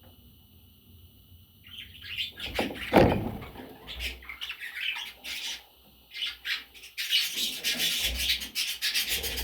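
Pet budgerigars chirping and chattering, starting about two seconds in and growing into dense, busy chatter near the end, with a sharp knock about three seconds in.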